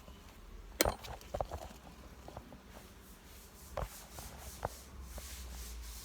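Knocks and scraping of wooden beehive parts being handled while a hive is opened for inspection, a sharp knock about a second in being the loudest, with a few lighter knocks later.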